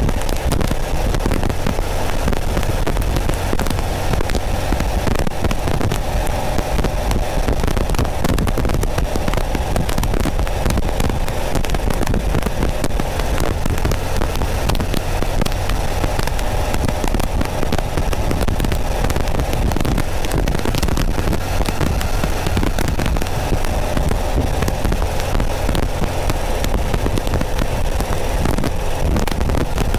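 Porsche 914's 2.0-litre air-cooled flat-four running steadily as the car drives along, heard from behind the rear window. Dense crackling static on the microphone lies over it throughout.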